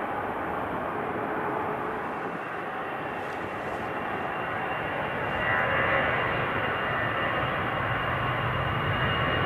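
Jet airliner engines running, a steady rushing sound that grows louder about halfway through, with a thin high whine coming in over it.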